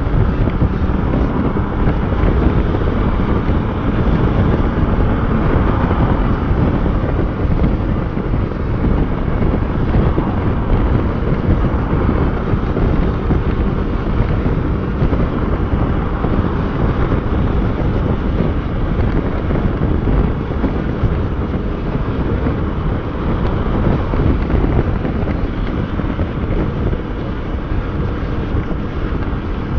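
Motorcycle underway at a steady pace, engine running under a loud, even rush of wind on the microphone.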